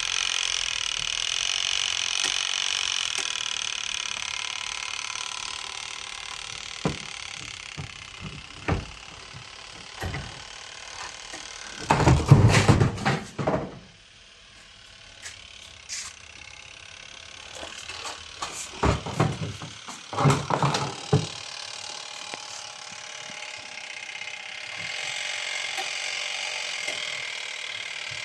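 Semi-automatic washing machine's mechanical spin timer and spin tub. A whirring fades over the first several seconds, then come scattered clicks and two loud stretches of ratcheting rattle, about twelve seconds in and again about twenty seconds in. Near the end a steady whir swells again.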